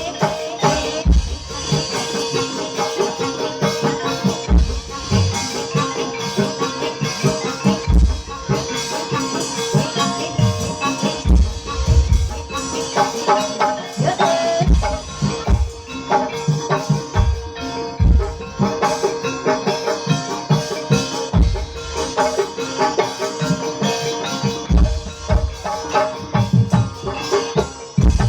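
Live ebeg (kuda kepang) dance music: a gamelan-style ensemble of mallet-struck pitched percussion over a rhythm of drum strokes, with rattling percussion, playing continuously.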